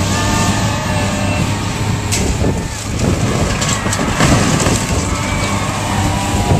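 Heavy demolition machinery running steadily, with crunching and sharp cracks of a building being torn apart, busiest around the middle.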